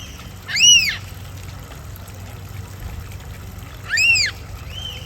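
A bird calls twice, about three and a half seconds apart. Each call is a short, loud whistle-like note that rises and then falls in pitch.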